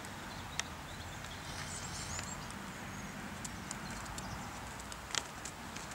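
Outdoor background noise: a steady low rumble, a few faint high chirps a couple of seconds in, and several sharp clicks, the loudest about five seconds in.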